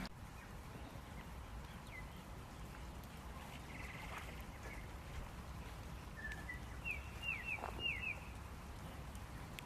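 Small birds chirping: a few scattered short calls, then a quick run of falling chirps about seven seconds in, over a low steady background rumble.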